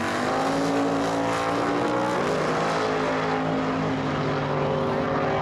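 Drag-racing car engine running hard at high revs, its pitch holding steady, then dropping about two seconds in and holding at the lower pitch.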